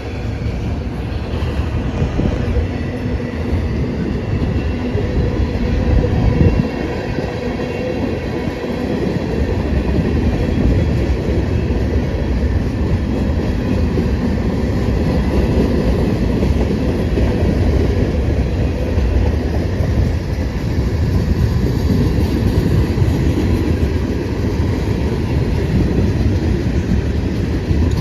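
Freight train rolling past, its cars' wheels rumbling steadily on the rails.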